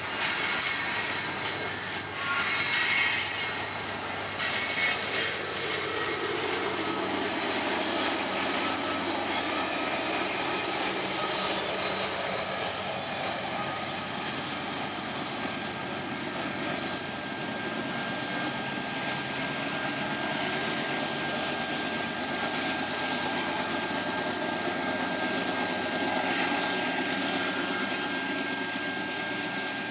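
Freight train rolling past on the rails with a steady rumble and clatter of wheels and cars. From a little past halfway a thin, steady, high-pitched wheel squeal runs on above the rumble.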